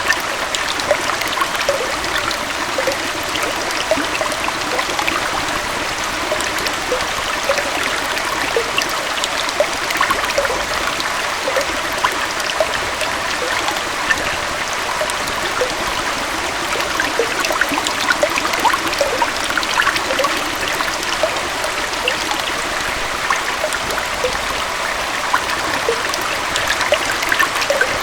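Small forest waterfall and stream flowing steadily, a continuous rush of water with many small splashes and trickles through it.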